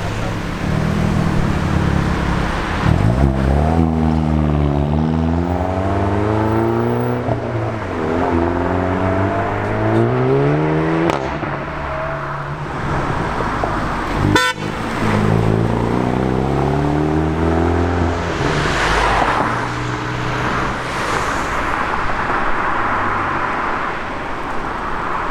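Hyundai i30N hot hatch's 2.0-litre turbocharged four-cylinder accelerating hard: the engine note climbs several times and drops back between gear changes. One sharp bang comes about halfway through.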